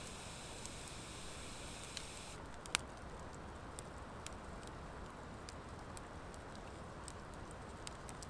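Campfire of driftwood and dry hardwood firewood crackling: scattered sharp pops over a steady low hiss, with one louder pop nearly three seconds in.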